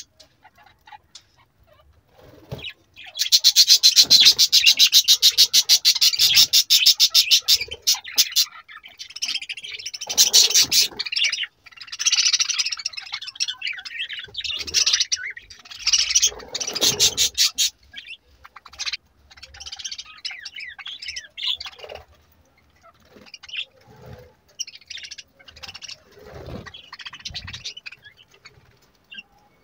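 Budgerigars chirping and chattering. A fast, loud run of rapid chirps begins about three seconds in and lasts some five seconds, followed by scattered chirps that thin out toward the end.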